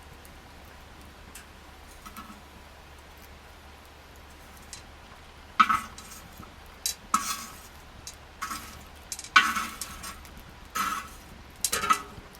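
Wood campfire giving a series of sharp snaps and pops, about six of them from about halfway in, after a quiet stretch.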